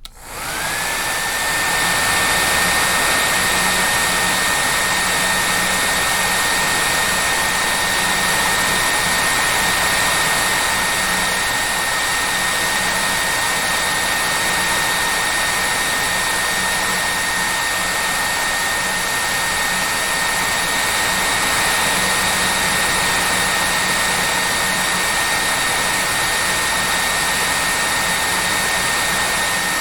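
Hair dryer starting up, its motor whine rising in pitch during the first second and then holding at a high steady note over a constant rush of blown air.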